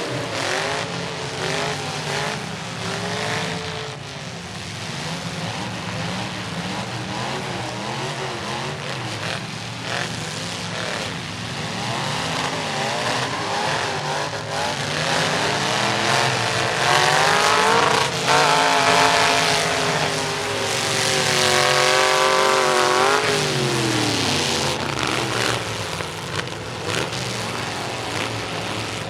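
Demolition-derby truck engines revving hard, their pitch repeatedly climbing and falling, loudest past the middle. Scattered bangs of the trucks hitting each other run through it.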